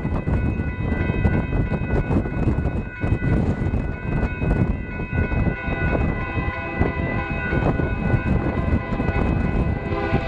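Train going by at close range: a heavy rumble with wheel clatter on the rails, and a horn sounding in the second half.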